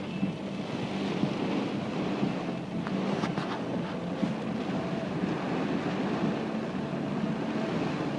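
Steady noise inside a moving car in heavy rain: engine and road rumble with a faint low hum, under the hiss of rain on the car.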